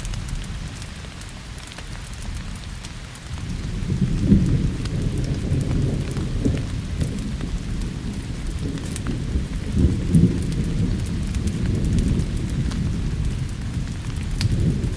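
Steady rain with rolling thunder: a deep rumble builds about three seconds in and swells twice. Sparse sharp crackles from a wood fire sound over it.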